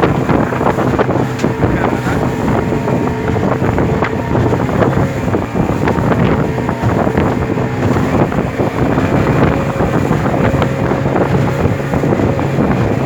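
Small motorboat's engine running steadily under way, with wind buffeting the microphone.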